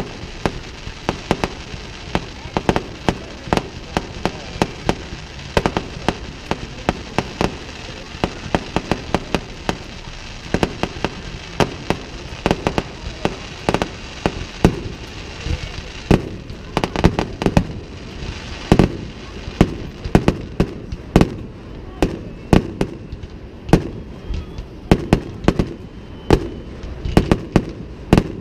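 Fireworks display: aerial shells bursting in a dense, irregular barrage of sharp bangs, several a second.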